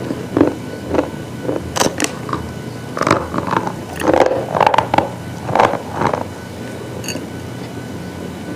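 Brittle slate-type material crunching in a series of sharp, irregular crunches that stop about a second and a half before the end.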